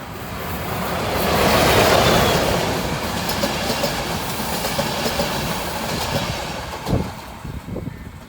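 A train passing close by, with steady wheel-on-rail noise. It swells to its loudest about two seconds in, runs on as the cars go by, then fades toward the end, with a single sharp knock about seven seconds in.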